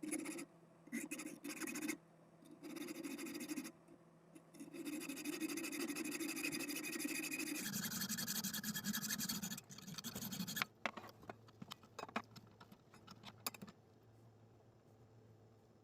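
A small power tool running in repeated short bursts, then a longer run, its pitch dropping about eight seconds in. Scattered light clicks and taps follow near the end.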